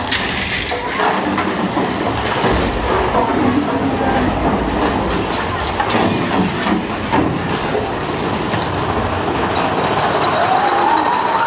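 Big Thunder Mountain Railroad mine-train roller coaster running along its track, with wheels clattering and rushing noise throughout. Near the end a high, rising cry sounds over it.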